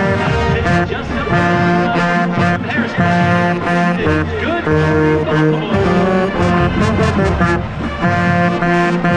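Marching band playing loud, brass-heavy music in held chords with short breaks between them, heard from inside the band.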